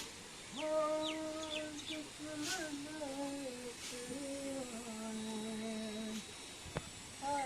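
A woman humming a slow tune, holding long low notes that step up and down. There are a few brief swishes and a single sharp click near the end.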